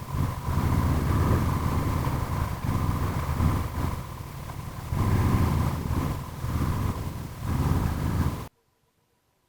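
Motorcycle engine running, with wind on the microphone and the level rising and falling in surges; the sound cuts off abruptly about eight and a half seconds in.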